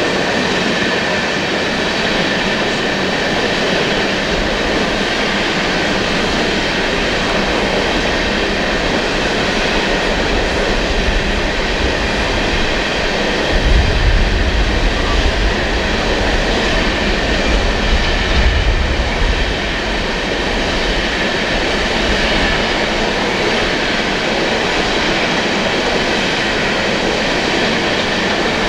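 Freight train's coal hopper cars rolling past: a steady clatter of steel wheels on rail, with a heavier low rumble from about 13 to 19 seconds in.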